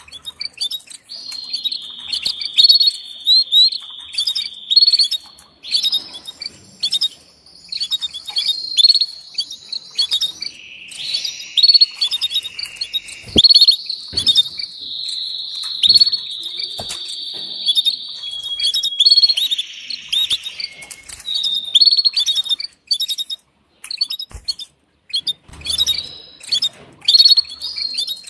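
Domestic canary vocalising: quick repeated chirps and short calls, broken by long rolling trills held for several seconds in the middle.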